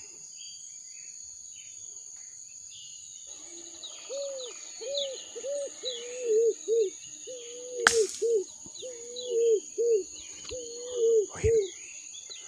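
A dove cooing in a long series of short, arched, low notes, some paired, over a steady high insect drone and smaller birds chirping. One sharp click cuts through about eight seconds in.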